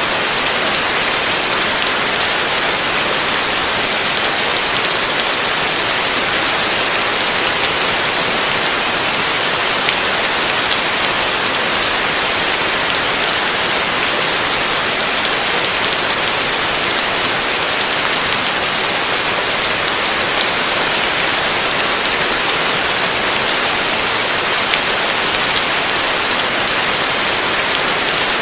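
Heavy rain falling steadily on a roof, a dense, even hiss with no thunder or other distinct sounds.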